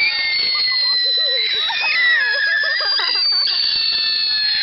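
Whistling firework giving a long, high, shrill whistle in several tones together, its pitch sliding slowly down, over voices calling out.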